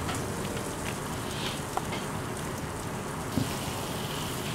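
Raw chicken thigh pieces sizzling in a hot pan of garlic, onion and spiced butter-flour curry roux: a steady frying hiss with scattered small crackles.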